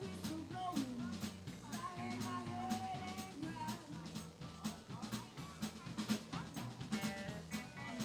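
Live band playing, with a drum kit keeping a steady beat of snare and bass drum, and pitched instrument lines over it.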